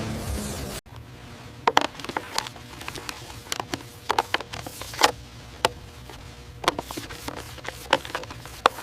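Background music cuts off abruptly, followed by a run of irregular, sharp clicks and light taps at an uneven pace, a few at a time, over a faint steady hum.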